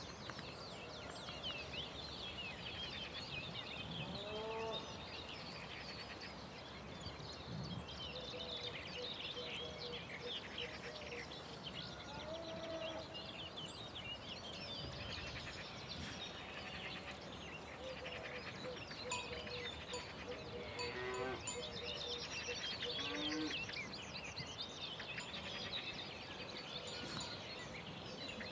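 Countryside ambience: many birds singing and chirping all through, with a few farm animal calls now and then.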